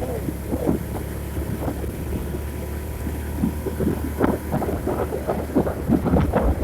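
A vehicle running along a road, with a steady low rumble and wind buffeting the microphone. The rough, uneven noise gets busier in the second half.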